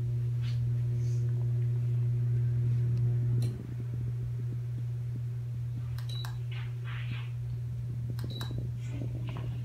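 AC-motor ceiling fan running with a steady low electrical hum, the vibration and noise typical of an AC fan motor. About three and a half seconds in, the hum dips slightly and loses its higher overtones. Later come a few clicks and two short high beeps.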